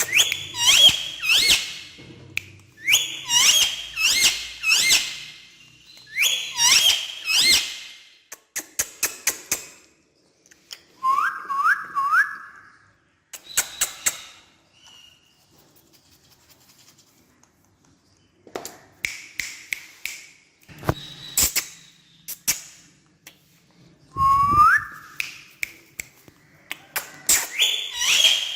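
Parrot calling in bursts of sharp, high chirps and squawks with quick upward slides, a few short rising whistles among them, and scattered sharp taps between the bursts.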